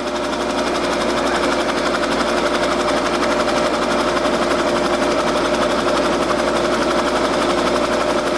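Helicopter engine and rotor running steadily, heard from inside the cabin: a continuous loud drone with a steady hum and a fine, rapid pulsing.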